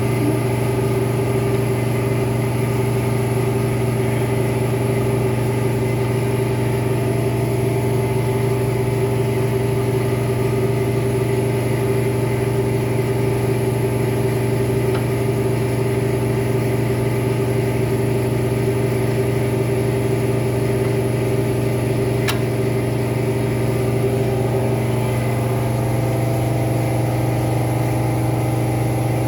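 A motor running steadily with a low, even hum. Its tone shifts slightly about 25 seconds in.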